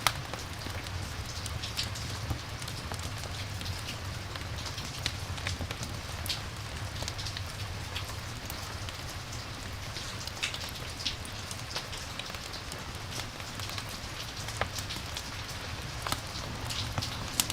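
Rain and campfire ambience: steady rain hiss with a low rumble, dotted throughout with many sharp ticks and crackles.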